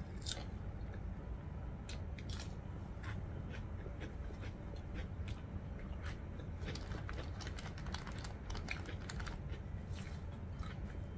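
Close-up eating sounds: chewing and biting, with many small sharp clicks scattered throughout over a steady low hum.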